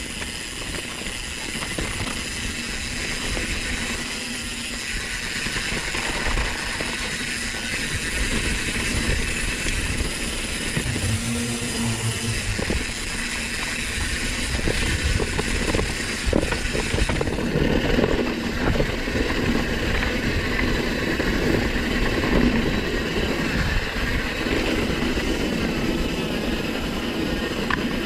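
Downhill mountain bike running down a rough dirt trail: tyres rolling over dirt, with the chain and bike rattling and knocking, and wind noise on a chest-mounted GoPro.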